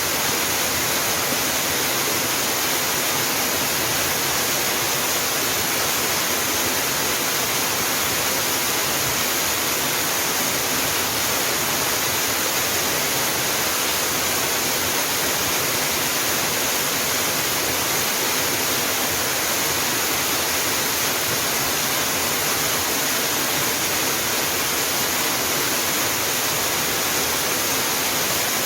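Mountain waterfall pouring steadily: an even, unbroken rush of falling water.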